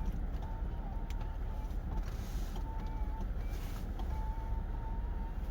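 Steady low rumble of an idling car engine heard from inside the cabin, with a few faint clicks of handling.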